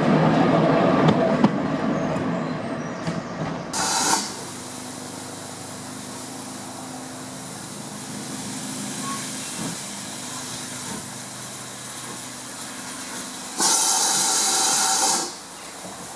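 Steam locomotive train: the rumble of the train running fades after about four seconds, leaving a steady steam hiss. A short blast of steam comes about four seconds in, and a louder one lasting about a second and a half comes near the end.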